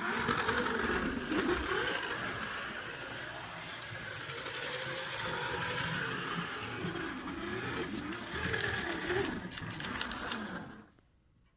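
1/24 scale slot car with a Strombecker electric motor and Cox gears running around a track, its motor and gear whine rising and falling with speed, with scattered sharp clicks. The sound cuts off shortly before the end.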